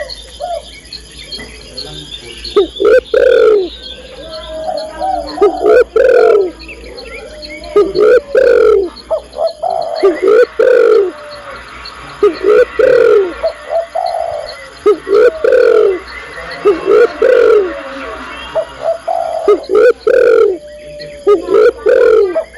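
Spotted dove (tekukur) cooing, a female's call to attract a male, its phrase repeated every two seconds or so. Small birds chirp faintly behind it.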